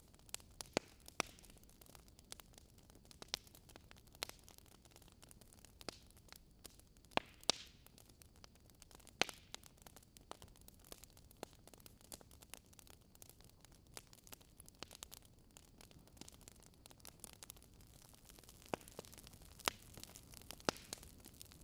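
Campfire wood burning: irregular sharp crackles and snaps over a faint steady hiss, with a few louder pops scattered through.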